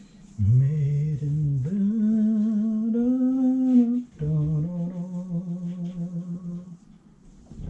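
A man humming a tune in three long held notes, the middle one rising a little near its end, then stopping about two-thirds of a second before the end.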